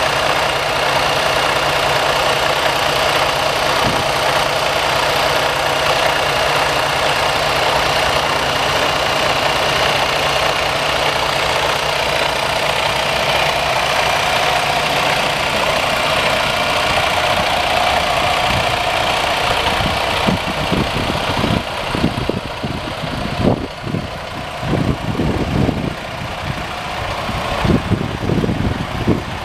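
Freightliner Cascadia's Detroit diesel engine idling steadily. From about twenty seconds in, irregular low rumbling thuds come and go over it.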